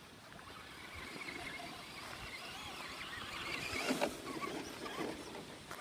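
Radio-controlled truck driving, its electric motor whining faintly and changing pitch, over a steady outdoor hiss, with a small knock about four seconds in.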